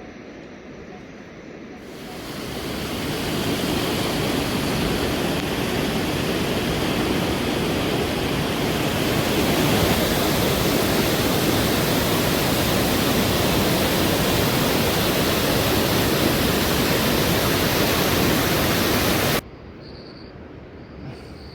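Loud, steady rush of falling water, fading in over the first few seconds and cutting off abruptly near the end.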